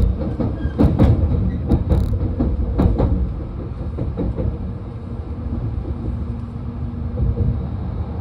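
Shinkansen train running at speed, heard inside the passenger cabin: a steady low rumble, with several sharp knocks in the first three seconds.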